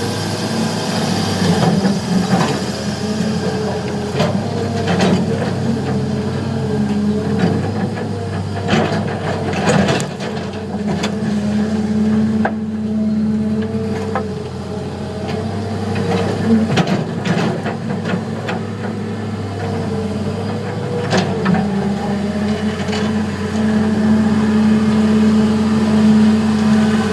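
Heavy diesel engines of a tracked excavator and a wheel tractor-scraper working under load, the engine note rising and falling as they pull. Scattered clunks and knocks of sandstone and steel are heard through it, several of them close together about ten seconds in.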